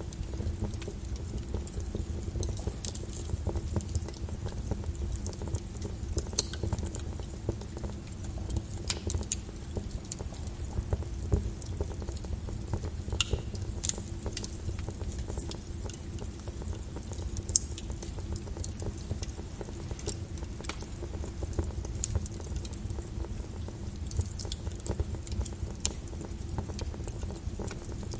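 Fire burning in a fireplace, crackling: irregular sharp pops and snaps over a steady low rumble of the flames.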